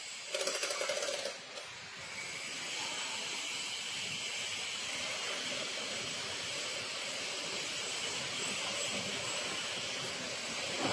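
A short run of rapid ticking, then a steady hiss that sets in about two seconds in and holds even.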